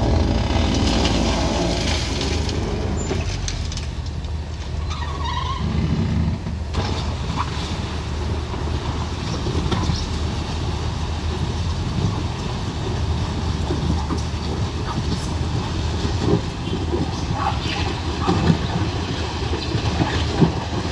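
Heavy vehicle engines running steadily at low speed, with scattered knocks and clatter over the top.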